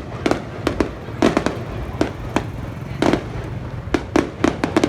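Fireworks going off, a quick irregular run of sharp bangs, several close together, over a steady low rumble.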